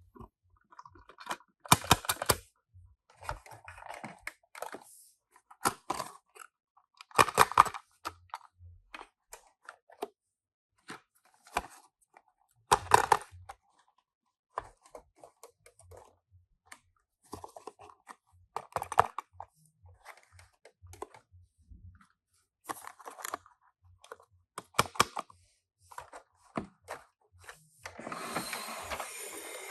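Hands handling Tomica die-cast minicars and their packaging: scattered clicks, taps and short rustles of small plastic and metal parts and card. Near the end, a steady rustling starts and keeps going.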